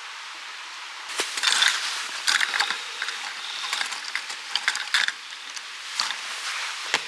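Small hard objects being handled: irregular clicks, rattles and rustling that start about a second in, over a steady hiss.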